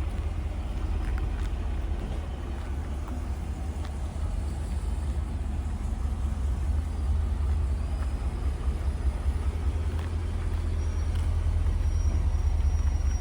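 Ford F-150's 5.0-litre V8 idling steadily, a low rumble.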